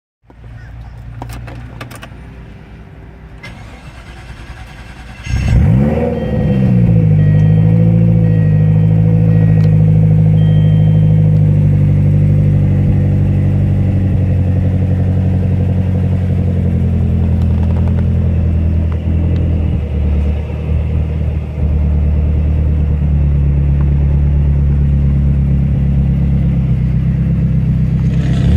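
Twin-turbo Lotus engine starting: a few seconds of lower hum with some clicks, then the engine catches about five seconds in with a brief flare of revs. It then settles into a steady idle.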